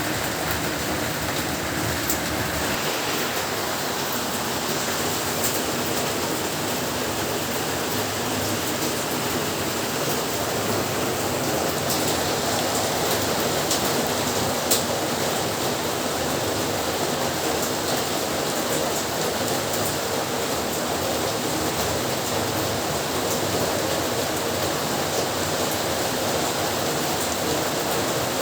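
Heavy rain falling steadily: an even, unbroken hiss with scattered sharp drop taps, one of them louder about fifteen seconds in.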